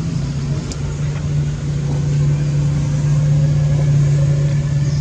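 A steady low mechanical hum, like a motor running, a little louder from about two seconds in, with a few faint ticks.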